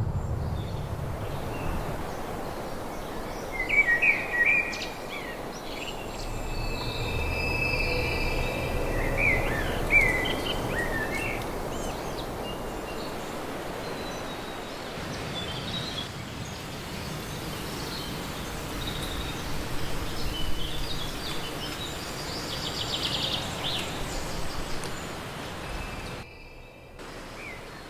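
Forest ambience: a steady rushing background with songbirds chirping and calling in scattered bursts, busiest in the first third and again later on. The sound drops out briefly near the end.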